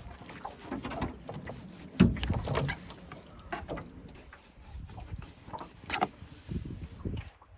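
Irregular knocks and clatter of things being handled, with one loud thump about two seconds in and an uneven low rumble of wind on the microphone.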